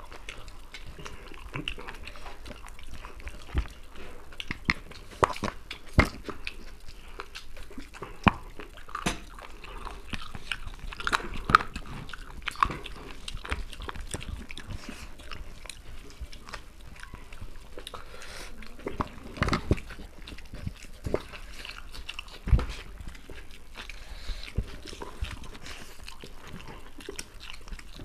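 Two people eating chicken biryani by hand, chewing and smacking their mouthfuls: irregular wet mouth clicks and bites, with a few louder smacks scattered through.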